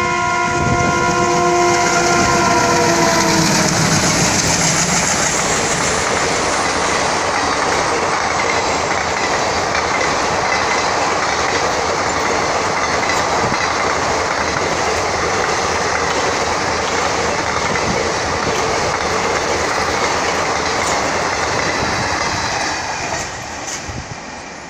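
Express train hauled by twin WDM3A diesel locomotives running through at speed: the locomotive horn sounds a held multi-tone blast that dips in pitch as it ends about three seconds in, then the coaches rush past with steady wheel clatter, fading near the end as the train draws away.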